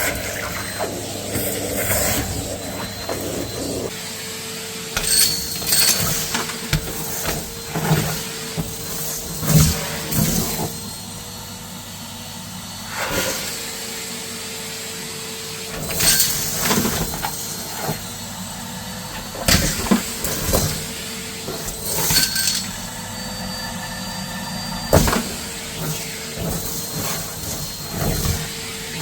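Numatic Hetty cylinder vacuum running with a steady motor tone, broken by irregular short loud bursts as the tool sucks up debris and knocks against the surface.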